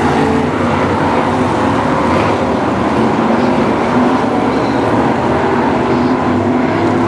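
Several BriSCA F1 stock cars' V8 engines running hard at once, a loud steady mass of overlapping engine notes whose pitch rises and falls as the cars accelerate and lift.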